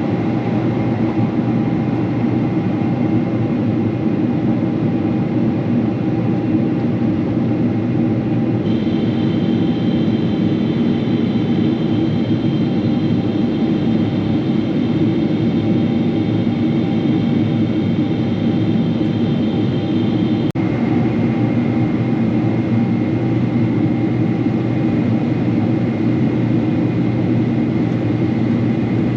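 Steady cabin noise inside a Boeing 777-300 airliner: the low roar of its engines and airflow. About nine seconds in a high-pitched whine joins it, and it stops with a faint click about twenty seconds in.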